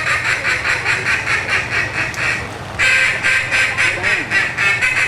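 A competition mallard duck call blown in a fast, evenly spaced run of quacks, about five a second, with a short break about two and a half seconds in before the run picks up again.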